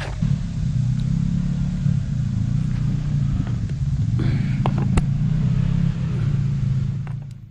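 Side-by-side UTV engine running under load as it works over rocks, with a few sharp knocks, the sharpest about five seconds in. The engine sound falls away near the end.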